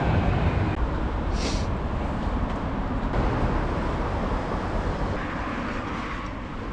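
Low rumble of a passing vehicle, fading away, with a brief hiss about a second and a half in.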